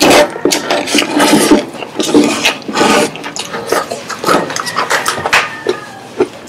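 Close-miked crunching and chewing of crispy fried chicken skin, a dense run of irregular crackles and clicks, with fingers picking and tearing at the chicken.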